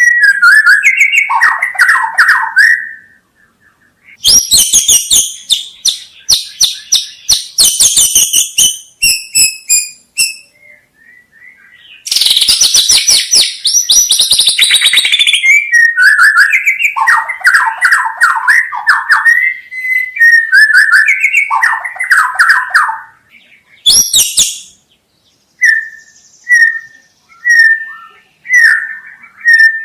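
White-rumped shama singing loudly in phrases of rapid trills and dense chattering clicks mixed with clear whistled notes, broken by short pauses. Near the end it gives a run of short, evenly spaced whistles.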